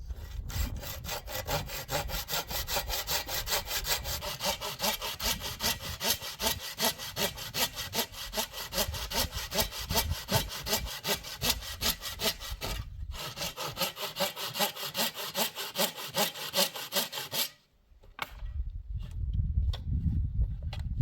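Hand sawing: a long run of fast, even back-and-forth saw strokes, with a brief pause about two-thirds of the way through. The sawing stops shortly before the end.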